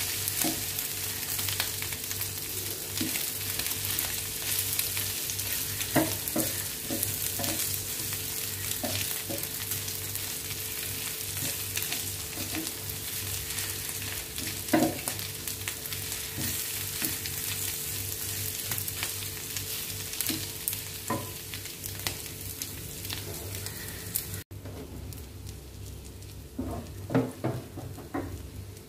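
Pork sisig sizzling in a hot metal sizzling plate over a gas burner as a wooden spatula stirs it, with scattered scrapes and knocks of the spatula against the plate. About 25 seconds in the sizzle drops away suddenly, leaving a few louder spatula knocks.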